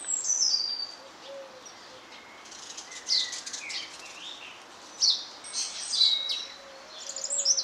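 Small songbirds singing and chirping: repeated phrases of high, thin chirps and short falling whistles, several bursts spaced through, over a faint outdoor hiss.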